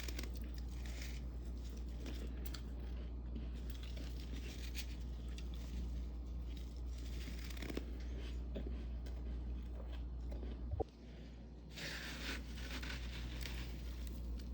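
Crispy freezer frost being scraped and crunched off the freezer walls and edges, in a run of crunching, tearing strokes, the loudest burst about twelve seconds in. A steady low hum sits underneath, with a sharp click just before eleven seconds.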